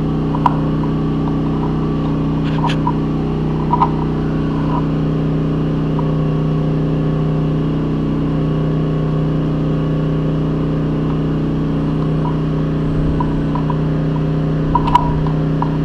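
Steady low machine hum at an even level, with a few faint light clicks and taps.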